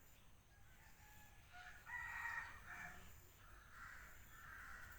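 Faint rooster crowing: one drawn-out crow starting about a second and a half in and lasting about three seconds.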